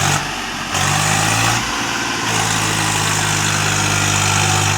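Swaraj 735 FE tractor's diesel engine running, its note dipping out briefly twice in the first two seconds, then settling into a steady drone.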